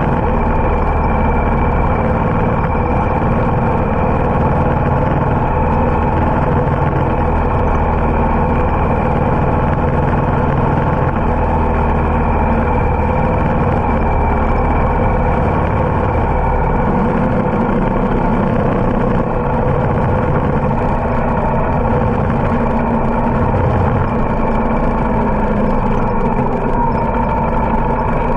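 Harley-Davidson motorcycle running steadily on the road, the engine drone mixed with wind noise.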